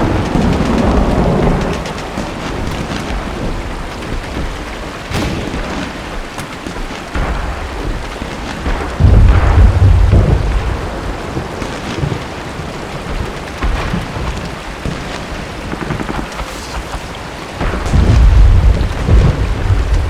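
Steady heavy rain with low rolling thunder. The rumble fades over the first couple of seconds, swells again about nine seconds in, and builds once more near the end. A few short sharp cracks come through the rain in between.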